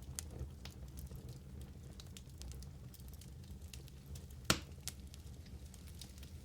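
Wood fire burning in a fireplace: a steady low rumble of flames with scattered small crackles, and one loud sharp pop about four and a half seconds in.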